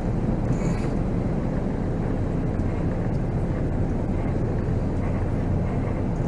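Volvo B7R coach on the move: its diesel engine and road noise run steadily, heard from the driver's cab.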